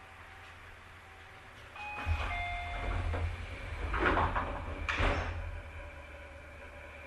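Passenger doors of a Tobu 30000 series electric train at a station stop: a few short electronic tones, then the sliding doors working with two loud rushing, hissing surges about four and five seconds in.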